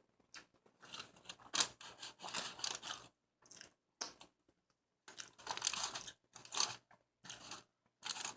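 Close-up chewing of a burger, with crunchy, wet bites coming in two main clusters and a short one near the end, separated by brief pauses.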